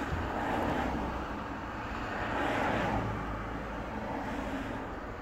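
Nissan Skyline R32 engine idling, heard from inside the cabin as a steady low rumble, with broad noise swelling louder twice, about half a second and two and a half seconds in.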